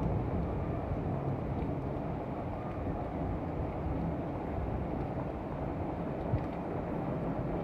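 Heavy rainstorm: a steady, low, muffled rush of downpour, with a brief knock about six seconds in.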